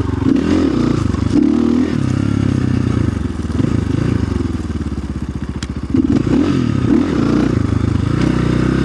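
A 2025 Orion RXB250XL dirt bike's engine, fitted with a Smartcarb carburettor, revving up and down under the rider's throttle. The revs fall off about three seconds in, then come back up sharply about six seconds in.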